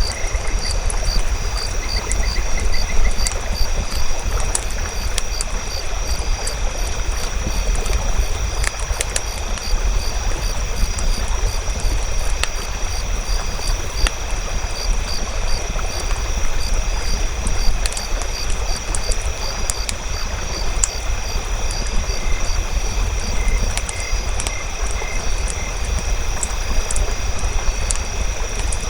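Campfire crackling with scattered sharp pops over a steady low rumble. High, steady insect trilling runs underneath, with short runs of frog croaking about two seconds in and again near the end.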